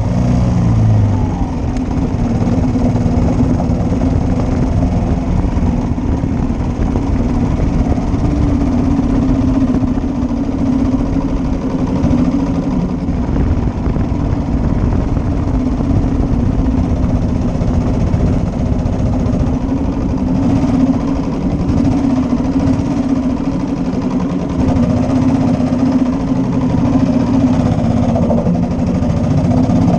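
1941 Matchless G3L's single-cylinder four-stroke engine running steadily under way. The engine note shifts about a second in and again near the end.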